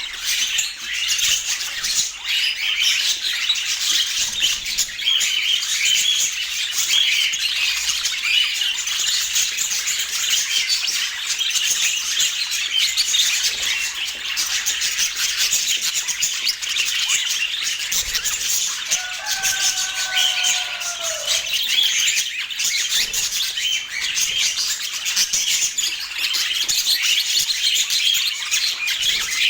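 A flock of budgerigars chattering and warbling: dense, continuous chirps and squawks. About two-thirds of the way through, one lower, drawn-out call stands out for a couple of seconds.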